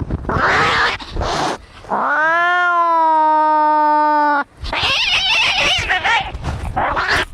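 Cats fighting: harsh hissing and spitting, then a single long yowl about two seconds in that rises in pitch and holds steady for about two and a half seconds, then more harsh hissing and screeching.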